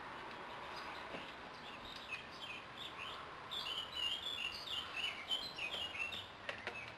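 A songbird singing: a quick run of short chirping notes, starting about two seconds in, over faint background hiss, with a couple of sharp clicks near the end.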